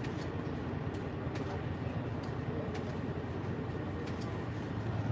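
Steady low mechanical rumble with a few light knocks and faint voices in the background.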